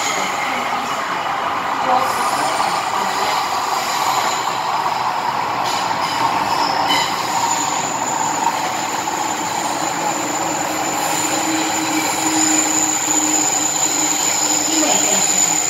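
MTR M-Train electric metro train running through the tunnel, with a steady rumble of running noise and a continuous high-pitched wheel squeal that strengthens about halfway through.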